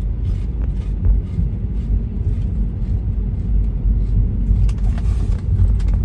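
Road noise inside a moving car: a steady low rumble from the tyres and engine while driving.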